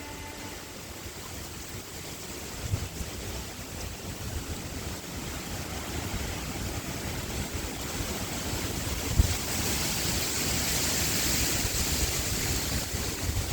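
Wind blowing, gusting against the microphone in low rumbles, with a high hiss that swells louder about two-thirds of the way through.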